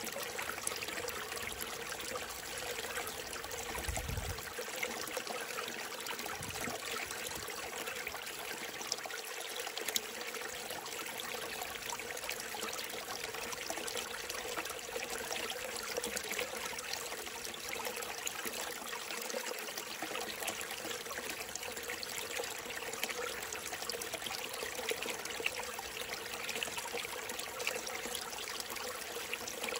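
Small mountain stream trickling and burbling steadily over rocks.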